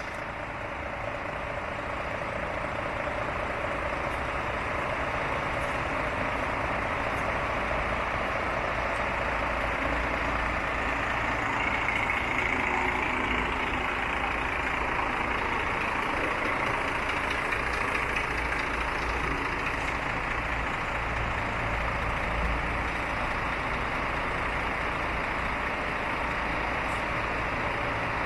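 Scania P380 tipper truck's diesel engine idling steadily.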